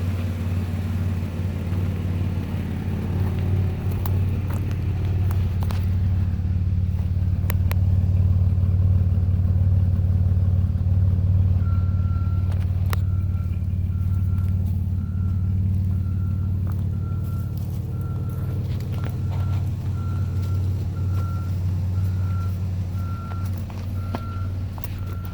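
Chrysler 3.3-litre V6 engine idling steadily with a low hum. From about halfway through, a reversing alarm beeps in a steady rhythm, about once every 0.7 seconds.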